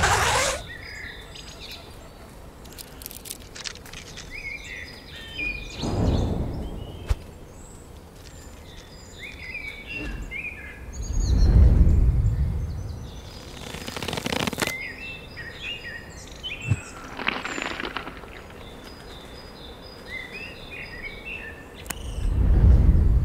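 Songbirds chirping and calling, with three swells of low rumbling noise about six, twelve and twenty-three seconds in, and a brief hiss of noise around fourteen seconds in.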